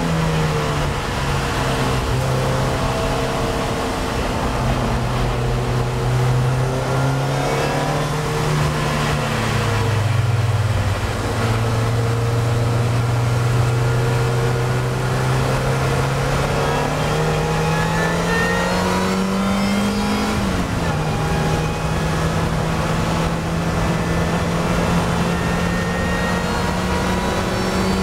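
Vauxhall VX220 sports car's engine running hard on track, its note climbing slowly through the revs. The pitch drops about ten seconds in and again, sharply, about twenty seconds in, then holds fairly steady, over a constant rush of road and wind noise.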